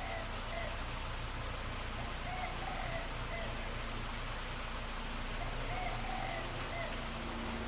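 Spotted dove (tekukur) cooing: short soft coo phrases repeated in groups every couple of seconds, over a steady background hiss.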